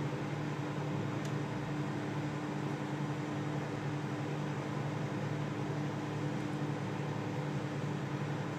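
Microwave oven running on high at 700 watts partway through a cooking cycle: a steady hum with fan noise.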